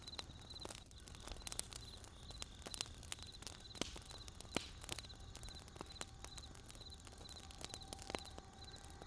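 Wood campfire crackling, with irregular sharp pops, one louder snap near the middle. A steady high chirp repeats about twice a second throughout.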